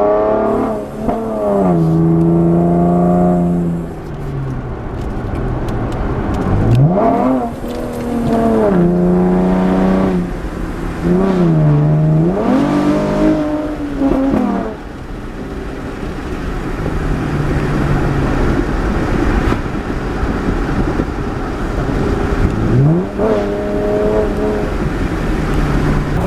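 2015 Camaro's 3.6-litre V6 with its mufflers deleted, heard from inside the cabin while driving. The engine note climbs steeply and drops back several times as the car accelerates, with steadier cruising between the pulls.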